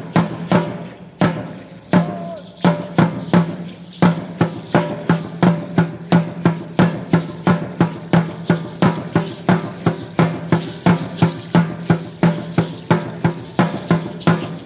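Deep dance drum beating for Aztec Chichimeca dance. It plays an uneven pattern, then settles about four seconds in into a steady beat of roughly three strokes a second.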